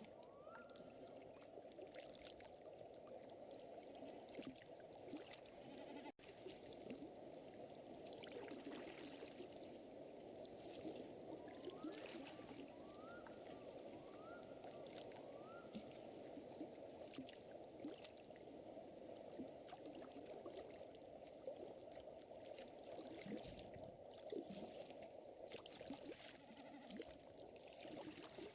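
Faint nature ambience: a steady wash of running or lapping water under a fire's scattered crackles. A few short rising calls, likely a frog or bird, come near the start and again in a run about halfway through.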